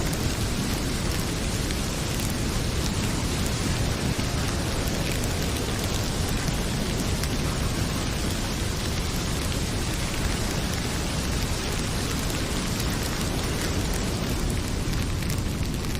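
Heavy rain pouring steadily, with fine crackling ticks from a wood fire mixed in and a deep rumble underneath.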